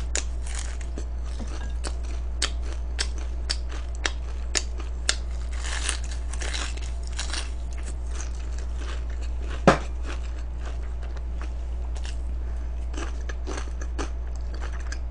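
Crunching and chewing of crispy fried chicken close to the microphone: a run of short sharp crunches, one louder about ten seconds in, over a steady low hum.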